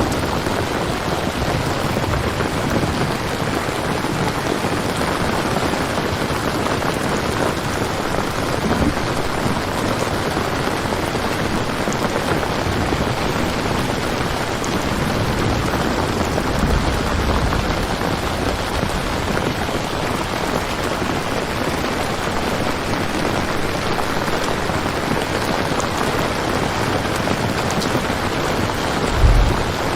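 Steady heavy rain falling, with a low rumble of distant thunder near the end.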